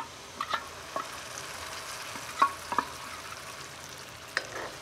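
Chopped spiny gourd (kankeda) frying in a kadhai with a steady sizzle as a wet spice paste is poured in. A steel spoon clinks and scrapes against the bowl and pan several times.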